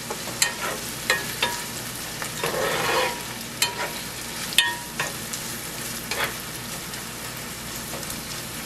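Green peas and onions frying in oil, sizzling steadily, while a spatula stirs them with repeated scrapes and clicks against the pan. The stirring strokes die away after about six seconds, leaving the sizzle.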